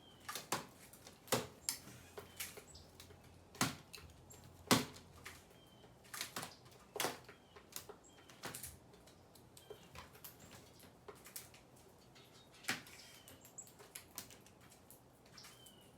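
Small birds feeding: irregular sharp taps and clicks of pecking, at varying loudness, with a few faint short high chirps.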